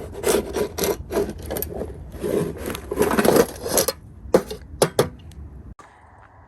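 Irregular clatter of knocks and scraping from wood and other hard objects being handled, dense at first, then a few separate knocks about five seconds in before it stops abruptly.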